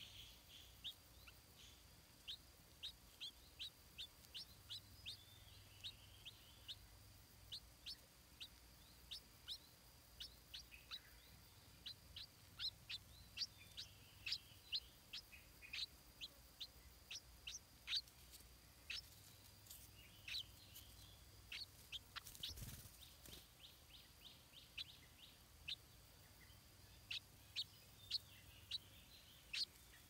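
Faint, short high chirps from a small bird, repeated one to two times a second, over a faint steady high-pitched drone. A brief knock about three quarters of the way through.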